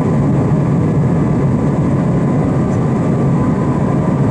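Steady jet engine and airflow noise inside the cabin of an Airbus A320 during its climb after takeoff, a constant low rumble.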